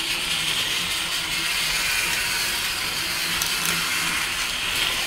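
Battery-powered toy train engine's small electric motor whirring steadily as it runs along a toy track.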